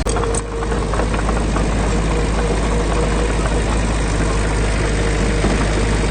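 Heavy-equipment diesel engine running steadily, with a brief dip about half a second in.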